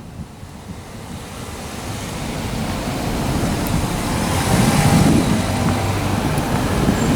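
A car's engine and tyre noise growing steadily louder as it draws near, with a low hum coming up in the second half.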